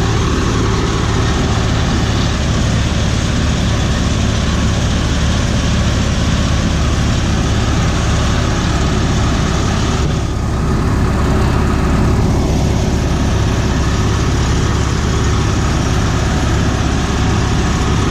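John Deere 3300 combine running steadily while harvesting wheat: a constant, loud drone of engine and threshing machinery, with a brief dip and swell a little past halfway.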